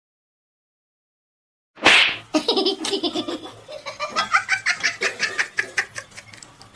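Silence, then about two seconds in a sudden loud burst, followed by high-pitched laughter in quick repeated bursts that lasts to the end.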